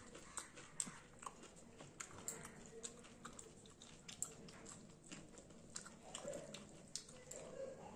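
A person chewing and smacking her lips over a mouthful of rice and curry, close to the microphone, with frequent soft wet clicks.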